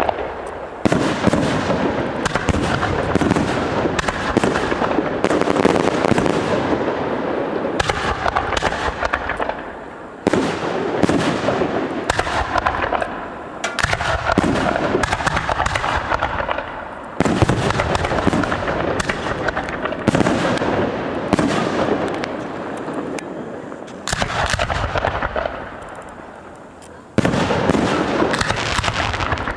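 Fireworks display: rapid, loud bangs of shells bursting with crackle, coming in dense volleys. Fresh volleys start with a sudden jump in loudness four times and fade a little between them.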